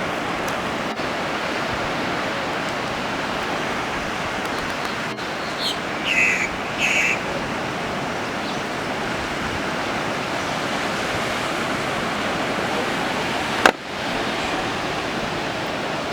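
Ocean surf washing onto the beach, a steady rushing noise. Two short high-pitched calls stand out about six and seven seconds in, and there is a sharp click near the end.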